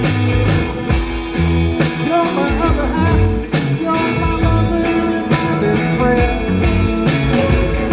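Live rock band playing an instrumental stretch of a song: a drum kit keeping a steady beat about twice a second under bass and electric guitar, with bending guitar lines in the middle.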